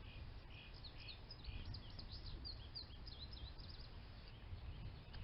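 Small birds chirping in a quick run of short, high chirps that thin out about three and a half seconds in, over a faint steady low outdoor rumble.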